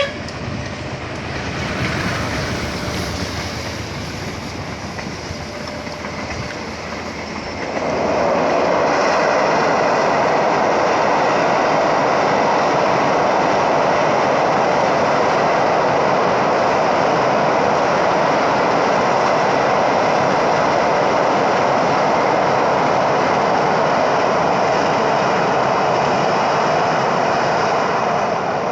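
A train passing close by on its rails. It grows suddenly much louder about seven and a half seconds in and keeps up a loud, steady rumble of wheels and cars, with a faint high steady tone running through it.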